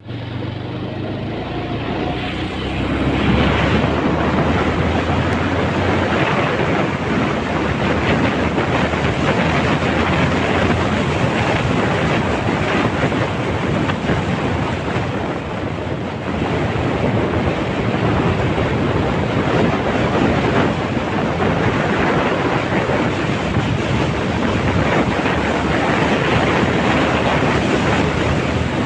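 Wind buffeting the microphone: a steady rushing noise with a gusty low rumble, louder from about three seconds in.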